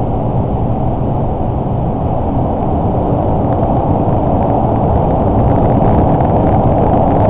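Express train running at speed through the Seikan undersea rail tunnel, heard inside the passenger car: a steady, loud, low rumble and roar.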